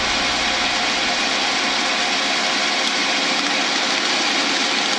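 Metal lathe running steadily, its cutting tool turning down a PVC pipe mold around a cast blank.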